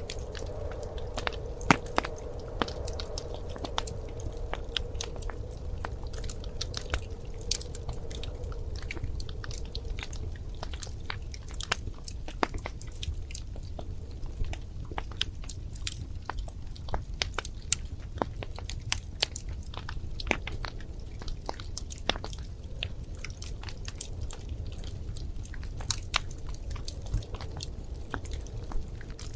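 Wood fire burning in a fireplace, crackling and popping irregularly over a steady low rumble of the flames. A faint steady whistle-like tone fades out about ten seconds in.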